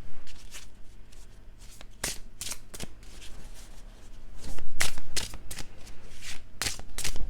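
Tarot cards being shuffled by hand: a run of quick, irregular card slaps and rustles, busiest a little past the middle.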